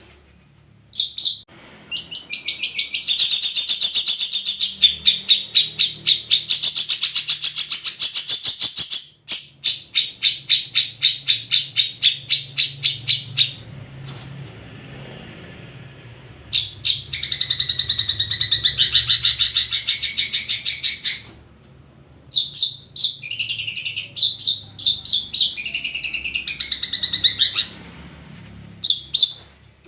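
Long-tailed shrike (cendet) singing: long runs of rapid, fast-repeated high notes lasting several seconds each, a pause about halfway through, then more varied, broken phrases near the end.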